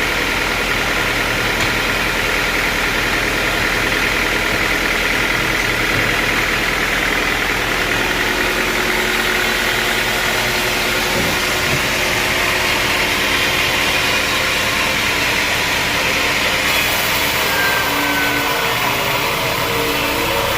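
Sawmill machinery running steadily, an engine holding a constant speed with a continuous mechanical hum.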